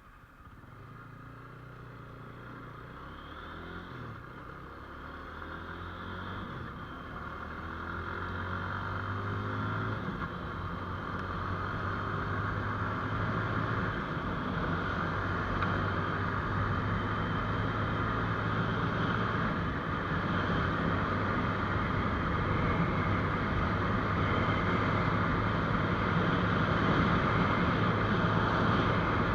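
GPX Demon GR200R motorcycle engine pulling away and accelerating through the gears, then running steadily at cruising speed. Wind and road noise grow louder as the bike gathers speed.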